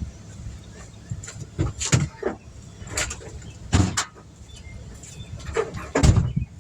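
Irregular clunks and knocks of equipment being handled and set down, a handful of sharp knocks a second or so apart, the loudest near the end.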